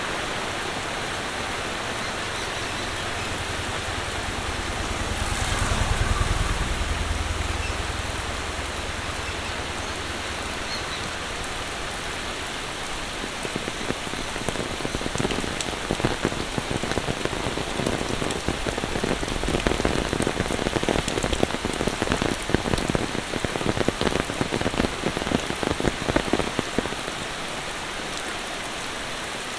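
Steady monsoon rain falling. A low rumble swells and fades in the first third, and in the second half many close, irregular sharp taps sound over the rain.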